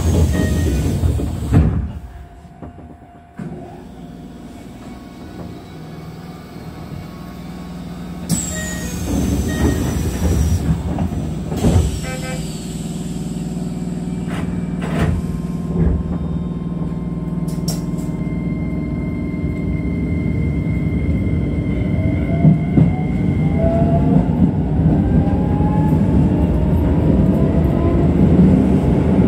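Keisei electric commuter train pulling away from a station. There is a brief hiss about eight seconds in, then the running noise builds and a rising whine from the motors climbs in pitch as the train gathers speed.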